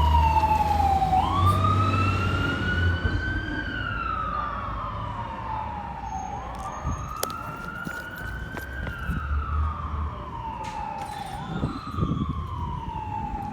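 Fire engine siren on a slow wail, its pitch rising and falling about every five seconds, over the low rumble of the truck's engine; both grow fainter as the engine pulls away.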